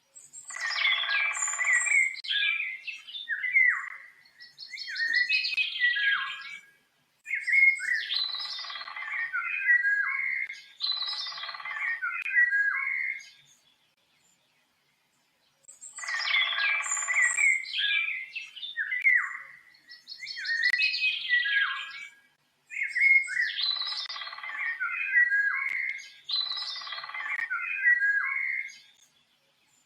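Birds chirping and calling in busy clusters of short, quick phrases, with brief silent gaps between them. The same sequence of about fourteen seconds repeats from about halfway through, as a looped sound-effect recording.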